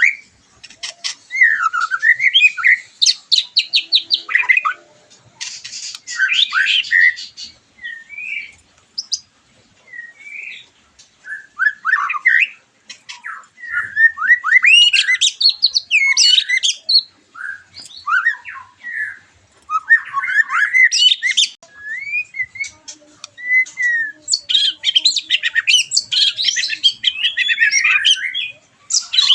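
White-rumped shama (murai batu) singing a long, fast, varied song of whistled slurs, harsh notes and rapid rattling trills with hardly a pause. It is the heated song of a bird fresh out of its moult.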